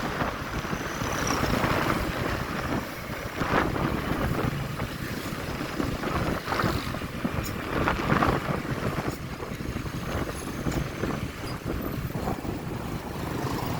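Wind rushing over the microphone of a moving motorcycle, with road and engine noise underneath, swelling and easing every second or two.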